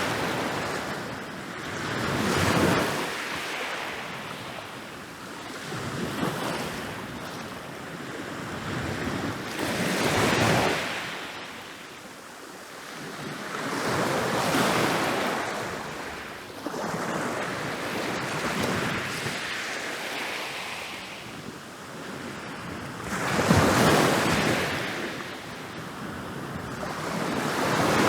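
Ocean waves rolling in and breaking on a beach, each crash swelling up and washing back out, about every four seconds.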